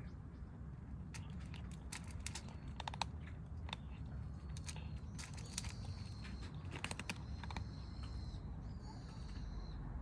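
Kittens eating, irregular clusters of sharp clicks and crunches of dry food, with a bird calling in high, level whistled notes midway and near the end over a low steady rumble.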